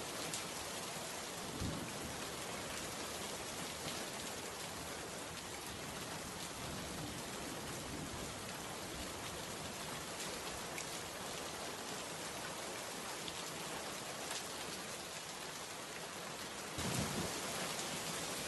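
Steady rain falling, an even hiss of many drops. A brief low thump comes about a second and a half in, and a low rumble near the end.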